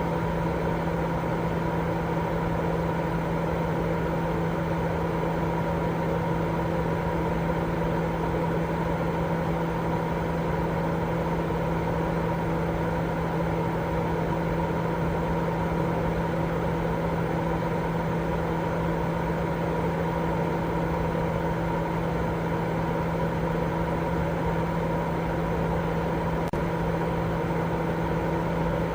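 Steady white-noise sleep sound: an unchanging machine-like drone with a constant deep hum and a few fainter steady tones over a soft hiss, never rising or falling.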